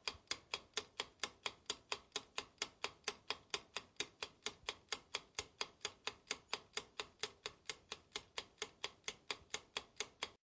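Steady, even ticking, about four ticks a second, that starts and stops abruptly, like a clock or timer ticking.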